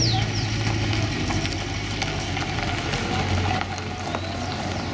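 Early-1960s Ford Galaxie's engine running at low revs as the car pulls slowly away, a steady low rumble. A few short bird chirps near the start.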